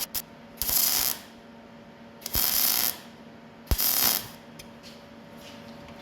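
Welder firing three short bursts of about half a second each, tack or stitch welds going onto a sheet-steel car body panel.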